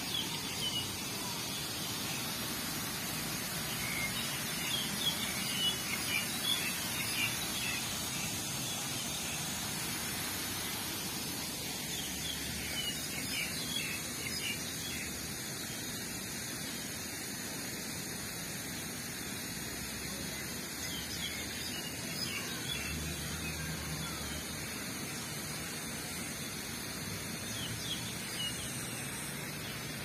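Small birds chirping in short high calls over a steady outdoor hiss; the chirps come mostly in the first several seconds and again around the middle.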